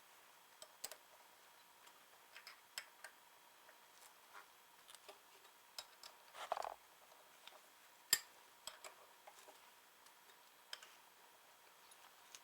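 Scattered light metallic clicks and taps of hand tools on the ball turner's steel bolts and lathe parts as they are tightened, with a short scrape about six and a half seconds in and the sharpest click about eight seconds in.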